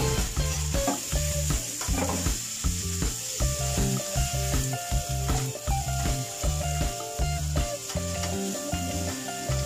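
Minced pork and onion sizzling in a hot nonstick frying pan while a spatula stirs and scrapes it, under background music with a steady beat.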